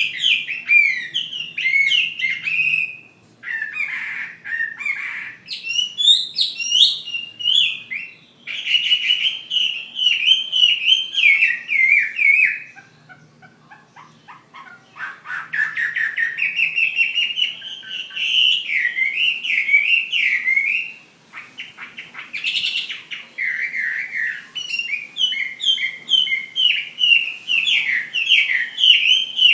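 Chinese hwamei (melodious laughingthrush) singing loud, varied phrases of rich whistles and fast trills, with a pause of about two seconds near the middle.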